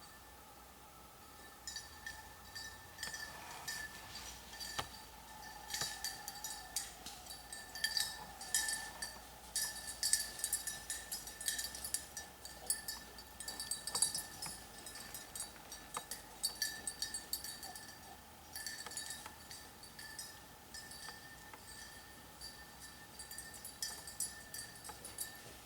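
Small metal bell jingling and clinking in irregular clusters of strikes, with a ringing high tone.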